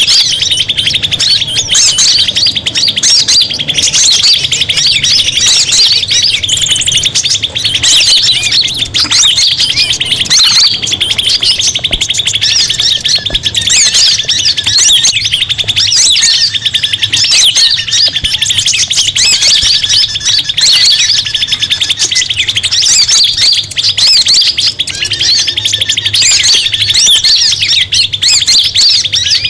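Bird-lure call of many small birds chattering and chirping at once in a dense, continuous, noisy mix over a steady high buzz. It is the kind of agitated mixed-flock racket played to draw forest birds in.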